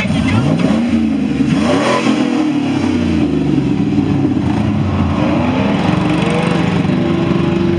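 An engine revving: its pitch rises and falls several times in the first few seconds, then it runs more steadily.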